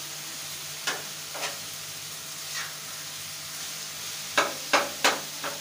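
Chicken and tomatoes sizzling in a flat black pan over a gas flame, with a metal slotted spatula scraping and stirring the mix in to combine it. There are a few scrapes in the first three seconds, then a quick run of four louder scrapes near the end.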